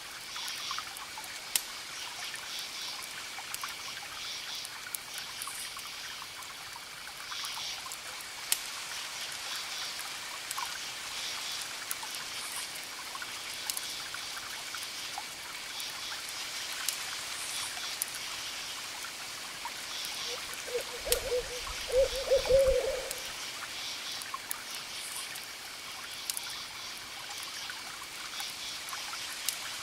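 Crackling fire with scattered sharp pops over a steady hiss, and faint high chirps recurring every couple of seconds. About two-thirds of the way through an owl hoots several times, the loudest sound.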